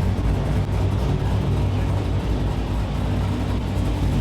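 Car engine running with a steady, loud low rumble, with no revving.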